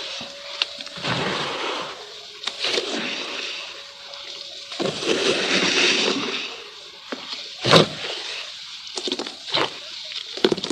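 Lumps of charcoal crumbling and breaking in water, with irregular sloshing and splashing and short crackling clicks, and one sharp loud crack about three-quarters of the way through.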